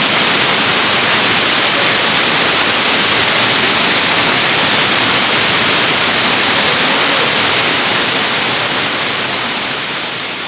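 Steady rush of a waterfall, a dense hiss strongest in the upper range, fading out near the end.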